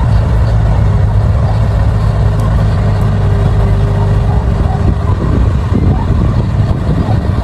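D60 bulldozer's diesel engine running steadily with a deep drone while working soil, a faint steady whine riding over it in the middle seconds.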